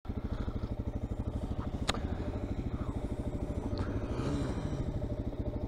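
Single-cylinder dirt bike engine running at a slow idle, an even low pulsing beat of about a dozen pulses a second. A single sharp click about two seconds in.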